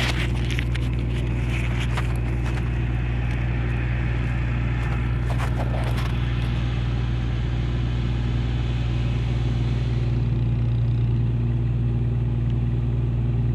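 Ship's engine running with a steady low drone, growing a little louder about ten seconds in, during berthing manoeuvres; faint clicks and rustles in the first half.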